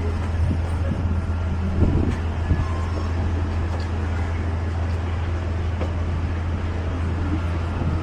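Steady low drone of vehicle noise heard from inside, an even rumble and hiss that does not change.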